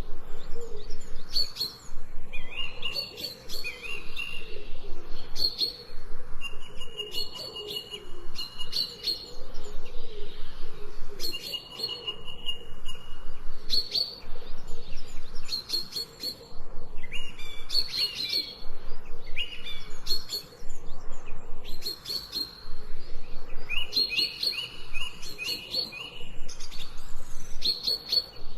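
Songbirds chirping and singing: clusters of short, high-pitched chirps and quick trills, coming in phrases every second or two.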